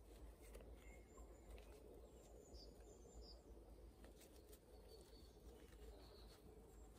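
Near silence: faint woodland ambience with a few short, distant bird chirps scattered through, and faint small rustles and clicks from hands handling leaves and string.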